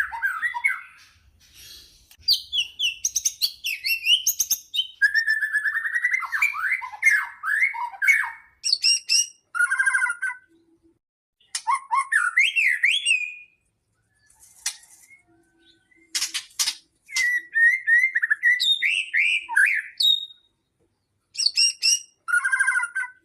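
White-rumped shama (murai batu) singing a varied song: sliding whistles, rapid trills and sharp high chirps in phrases of a second or two, broken by short pauses.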